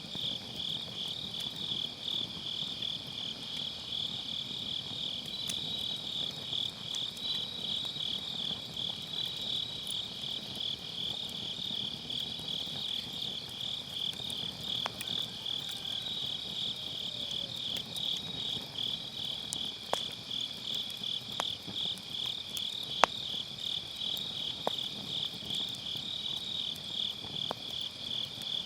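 Crickets chirping steadily in a fast pulsing trill, over a wood fire that gives a few sharp crackles and pops in the second half, one louder pop about three-quarters of the way through.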